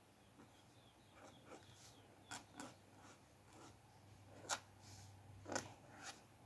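Quiet, short scratchy strokes of a dip pen's metal nib on paper, a handful of them, with a few sharper ones about two and a half, four and a half and five and a half seconds in.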